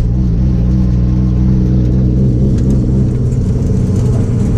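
Car engine running at a steady, moderate speed with an even drone, the car cruising at light load with only small changes in pitch.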